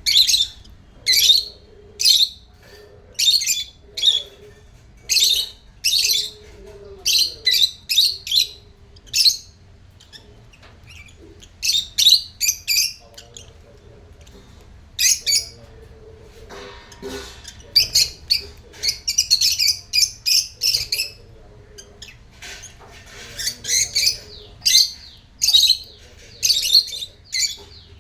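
African lovebirds calling with short, high-pitched chirps and squawks, repeated every second or so with a few short pauses.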